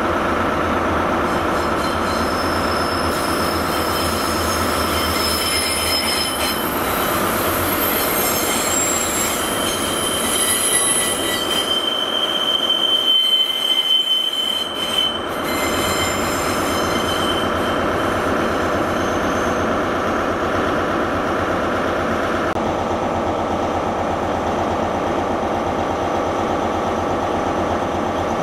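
Diesel multiple unit running slowly past along the platform, with a steady rumble and high, thin wheel squeal that is strongest about ten to fifteen seconds in.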